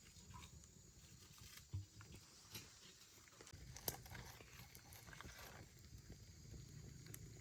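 Near silence: faint low background noise with a couple of soft knocks.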